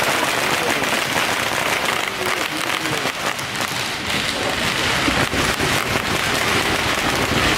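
Strings of firecrackers going off together, a dense, unbroken crackle of small pops.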